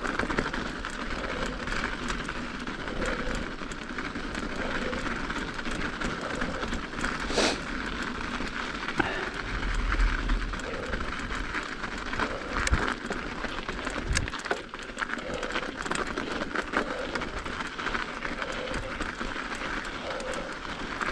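Mountain bike riding over an icy, snow-packed trail: steady tyre and drivetrain noise with frequent small clicks and knocks from the bike, and one brief sharp squeak-like sound about seven seconds in.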